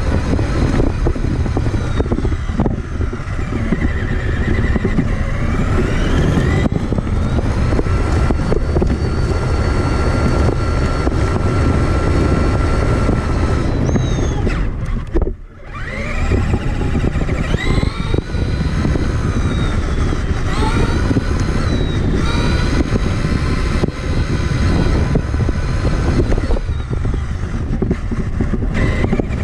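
A Traxxas Summit RC truck's electric motor and gearbox whine rises and falls with the throttle, over a steady rumble of tyres, terrain and wind on the onboard camera. About halfway through the sound drops off briefly, then the whine climbs again.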